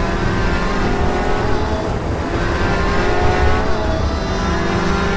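Car engine accelerating hard through the gears: its pitch climbs steadily and drops back at each upshift, several times over.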